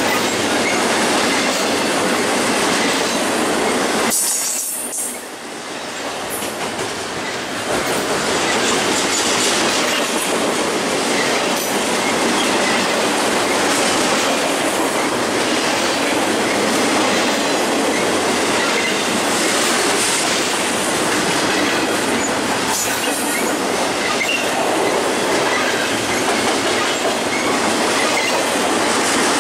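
Double-stack intermodal freight train's container cars rolling past at close range, a steady noise of steel wheels on the rails that dips briefly about four seconds in.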